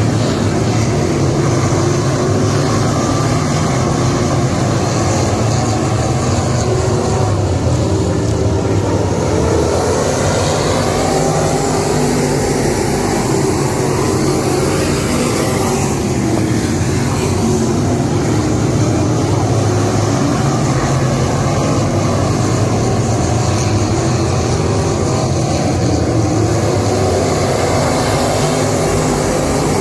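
Dirt-track modified race car engines running hard at speed, with pitch sweeps about a third of the way through as a car goes by.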